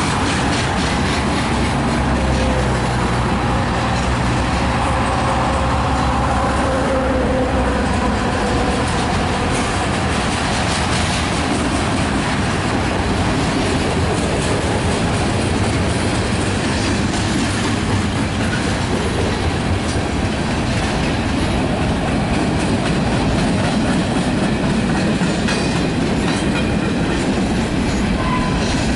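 A freight train's cars rolling past at close range, with a steady rumble and the clickety-clack of wheels over the rail joints. There is some wheel squeal in the first several seconds.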